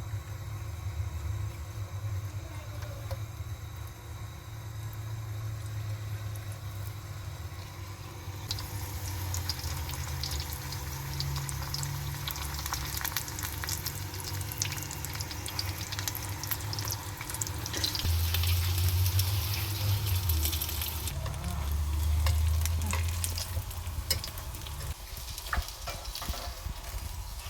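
Food frying in a pan, sizzling and crackling. The sizzle comes up sharply about a third of the way in and fades out later on. Under it runs a steady low hum that swells twice.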